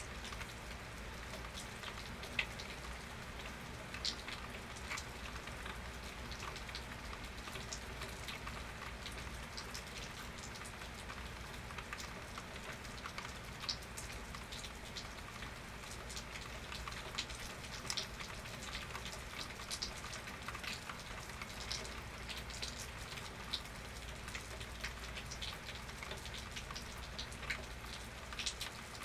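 Steady rain falling, with a constant hiss and many separate drops ticking sharply on a nearby surface.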